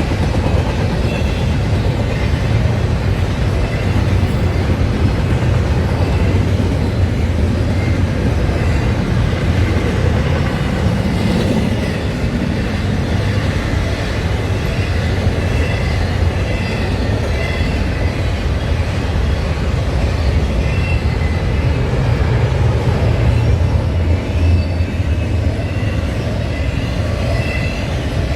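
A passing freight train: railcar wheels rumbling steadily over the rails, with light wheel squeal.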